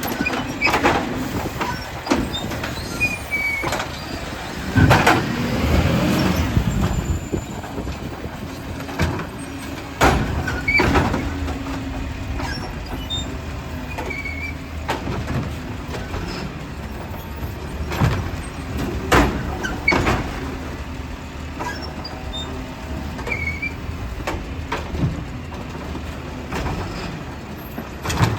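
Glass-collection garbage truck running steadily, with a series of sharp bangs and clatters spread through, and a longer rumbling crash a few seconds in.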